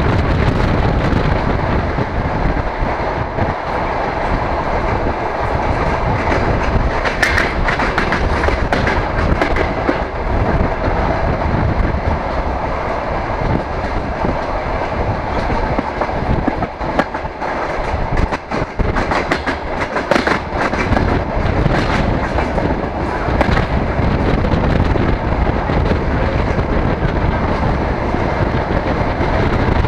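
DR1A diesel multiple unit running at speed, heard from an open window: a steady rumble of wheels on the rails with rushing air. Clusters of sharp wheel clicks come about a third of the way in and again for several seconds past the middle.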